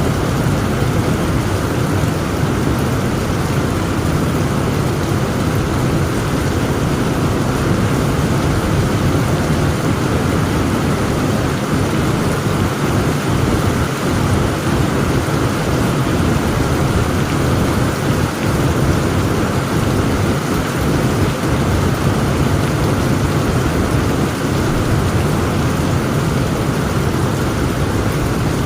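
Heavy rain falling steadily with a continuous low rumble of thunder.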